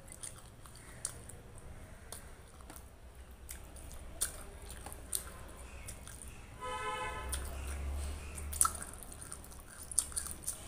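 Close-miked, wet chewing of a mouthful of rice and curry, with frequent sharp mouth clicks and smacks. A brief tone sounds about seven seconds in.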